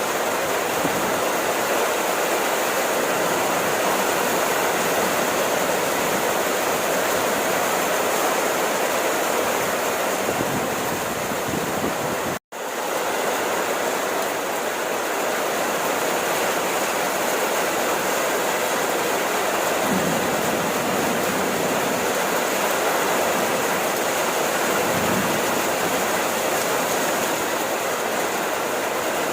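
Steady rain falling, an even hiss broken by a momentary cut to silence about twelve seconds in.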